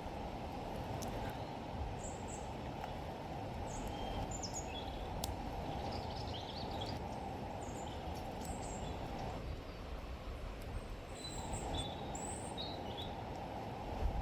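Wild birds giving short, scattered chirps over a steady low rushing noise from the outdoors. The rushing drops away for a moment about two-thirds through.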